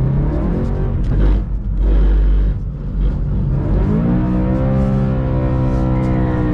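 BMW M3 E92's V8 engine heard from inside the cabin while drifting on a wet track: it revs up in the first second, gives way to low road and tyre rumble, then climbs again about three and a half seconds in and is held at steady revs until it drops off at the end.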